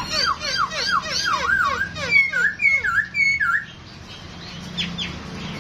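Poksay Hongkong, a laughingthrush, singing a fast run of loud, swooping whistled notes, about five a second, that stops a little over halfway through; two faint notes follow near the end.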